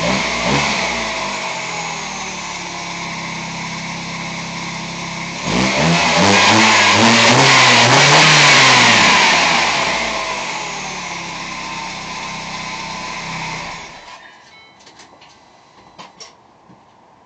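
Engine of a modified Mini Cooper tuned to over 500 hp, its revs dropping off at the start and then running steadily. About five seconds in it revs up sharply, climbing in pitch and getting much louder, then falls back over the next few seconds. Near the end the engine sound stops, leaving only faint ticks and clicks.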